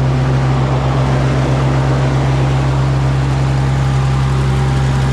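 Minneapolis Moline G900 LP tractor engine running steadily at a constant speed, without surging now that the LP carburetor mixture has been reset.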